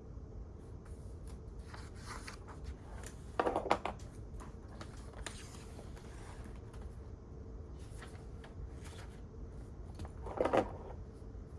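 Quiet library room tone: a steady low hum with scattered faint clicks, and two brief louder clatters of small knocks, about three and a half seconds in and near the end.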